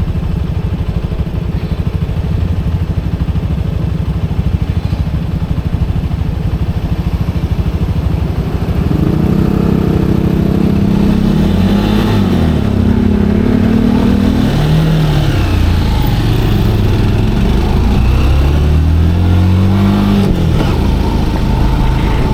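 Motorcycle engine running steadily at low revs. About nine seconds in it pulls away, its pitch rising and dropping back several times as it accelerates through the gears.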